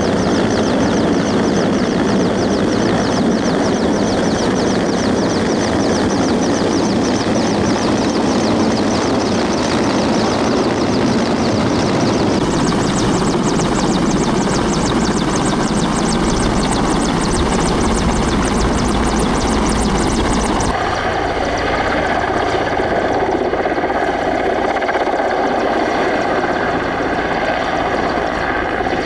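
Helicopter running steadily, its rotor beating in a fast, even rhythm. The sound changes abruptly about twelve seconds in and again about two-thirds of the way through.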